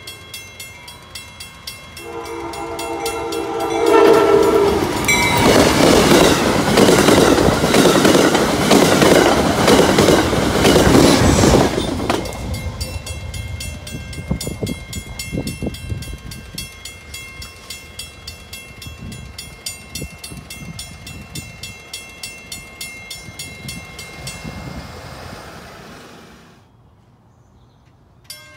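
Train horn blast about two seconds in over a steadily ringing grade-crossing bell; then, from about four seconds in, a train passing close by, loud wheel and engine noise for about eight seconds before it fades. The crossing bell rings on afterwards and stops near the end.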